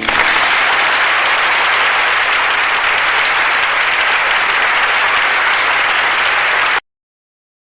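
Loud, steady audience applause from a live recording, following the song's final chord; it cuts off abruptly near the end, leaving dead silence.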